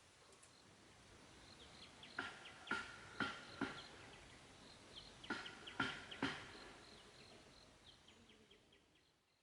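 Quiet outdoor ambience with many short, high chirps from small birds or insects. Two clusters of sharp, ringing knocks break in: four about half a second apart around two seconds in, then three more a few seconds later. The whole sound then fades out.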